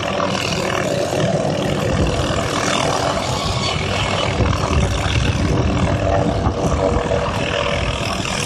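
Tree-trimming helicopter running steadily overhead, a continuous engine and rotor drone with a rough low rumble.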